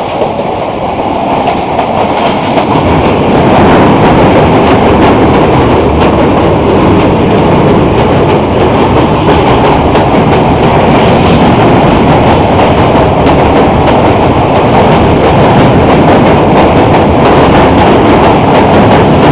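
Passenger train running over a steel truss railway bridge, heard from an open coach doorway: a loud, steady rumble of wheels clattering on the rails. It grows louder a few seconds in, as the coach runs onto the bridge.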